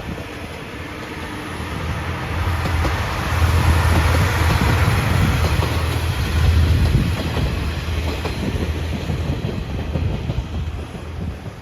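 Electric passenger train passing close by, wheels clattering over the rail joints over a deep rumble; the noise builds over the first few seconds, is loudest through the middle, and eases off near the end.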